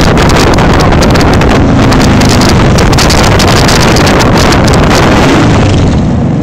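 Heavy wind rush on the microphone over a motorcycle engine running at speed, easing slightly near the end.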